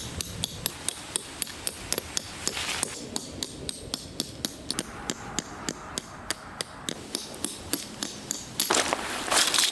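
Tent pegs being hammered into the ground: a quick, even run of sharp strikes, about three or four a second.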